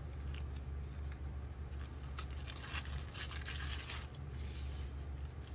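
Sticker sheets and their little packaging bags being handled, with irregular crinkling and rustling over a steady low hum.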